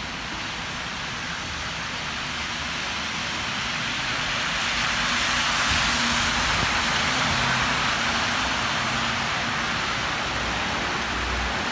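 A London bus passing on a snowy road, its engine hum under a steady hiss of tyres. The sound swells to its loudest about halfway through and then eases off slightly.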